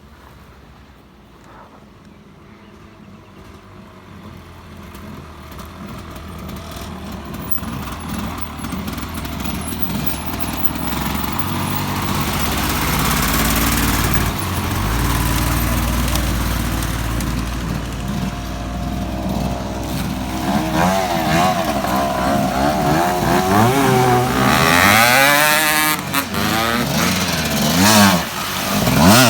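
Dirt bike engine growing steadily louder as it approaches, then revving up and down repeatedly close by, loudest near the end.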